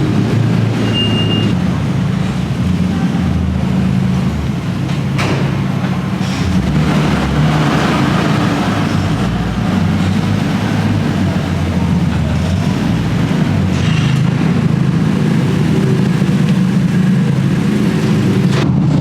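Car engine running at low, steady revs, with a steady low hum and a few faint clicks over it.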